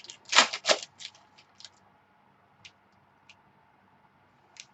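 Trading cards and their plastic packaging being handled. A quick run of sharp crackles and clicks comes in the first second, then a few light, spread-out ticks.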